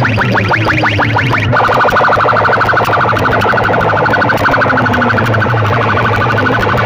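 Electronic siren-like alarm effect blasted through a DJ sound-box speaker system. Rapid rising chirps switch about 1.5 s in to a fast pulsing tone, over a steady bass drone.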